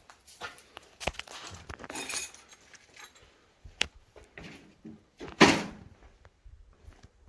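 Footsteps crunching over debris, with scattered clicks and knocks and one louder crunch a little past halfway.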